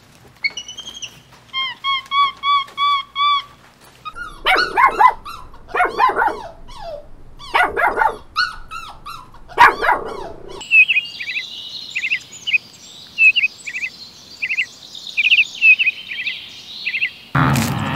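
A run of quick, evenly repeated calls, then a dog barking and yelping in short, pitch-bending bursts for several seconds, then small birds chirping over a steady hiss.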